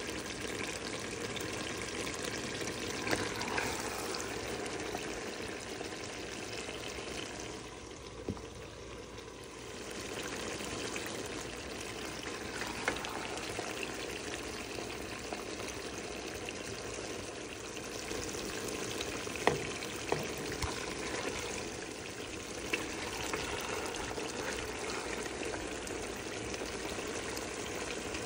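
Chicken and okra sizzling steadily in a pot on the stove, stirred with a spoon that clicks against the pot a few times.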